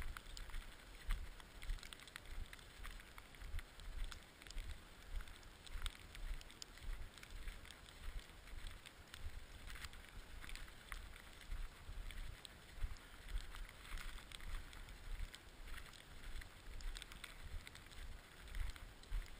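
Wind buffeting the microphone in irregular low gusts, with faint scattered clicks.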